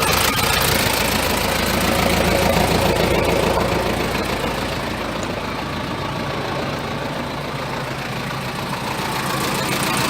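Toyota 1KZ-TE four-cylinder turbodiesel idling steadily.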